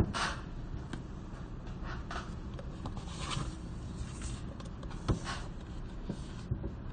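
Library ambience: a steady low hum of the room with scattered soft rustles, scrapes and a few light knocks, the loudest knock about five seconds in.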